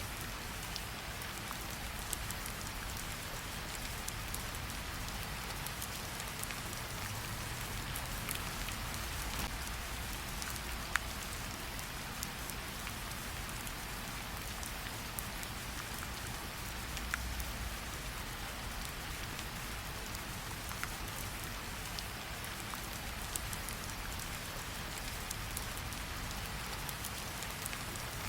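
Steady rain with scattered sharp pops and crackles from a campfire, one louder pop about eleven seconds in.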